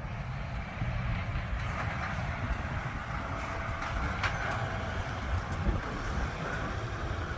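Heavy truck's diesel engine running as it drives slowly past, with a steady low rumble and tyre noise, and one sharp click about four seconds in.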